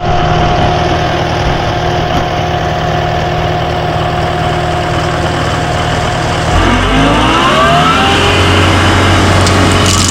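Engine running steadily, then revving up about six and a half seconds in, its pitch rising.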